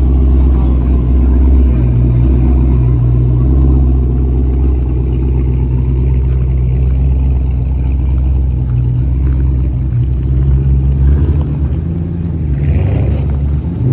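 A car engine running close by with a deep, steady low rumble that shifts a little near the end.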